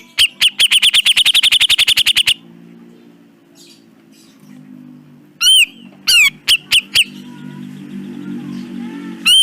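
Cucak jenggot (brown-cheeked bulbul) song: loud, harsh arching notes, opening with a fast rattling run of about ten notes a second that lasts some two seconds. After a short pause it gives several more loud single notes, and one more near the end.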